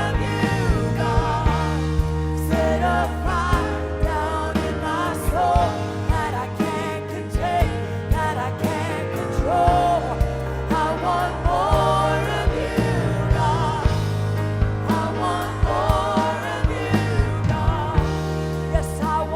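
Live worship band playing a slow song, with sustained bass notes, a steady drum beat and a voice singing a wavering, wordless melody over it.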